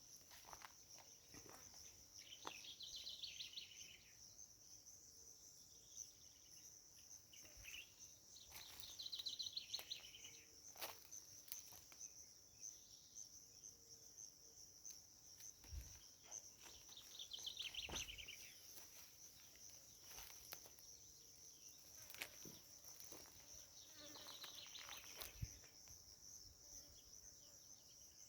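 Faint, steady high-pitched chirring of insects in natural surroundings. A short trilling call joins in four times, roughly every seven seconds.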